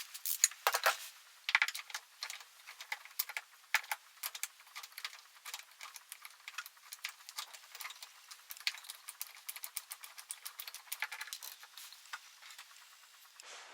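Irregular light clicks, taps and rattles, several a second, with a few sharper ones in the first couple of seconds, typical of small metal parts and hand tools being handled during scooter repair work.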